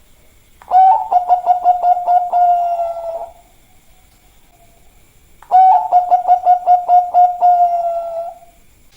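Zebra dove (perkutut) of the Bangkok song line cooing: two song phrases about three seconds long, each a quick run of stuttered notes that ends in a longer held coo.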